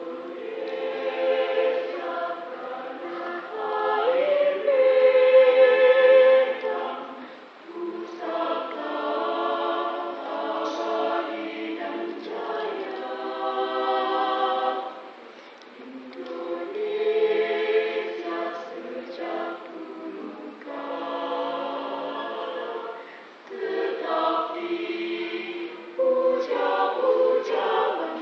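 Mixed choir of male and female voices singing together in harmony, in phrases of several seconds with short breaks between them.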